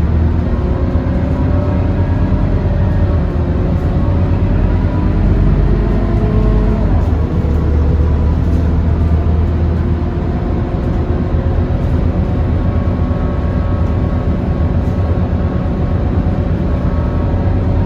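Scania K230UB bus's five-cylinder diesel engine running while the bus is under way: a steady low rumble with a whine that rises and falls in pitch.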